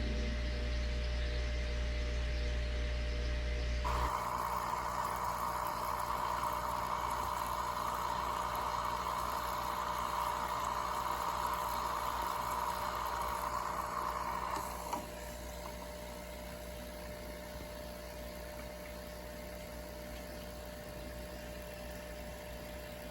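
Steady mechanical hum with a hiss. A deep low hum stops about four seconds in as a louder hiss starts; the hiss cuts off about fifteen seconds in, leaving a quieter steady hum.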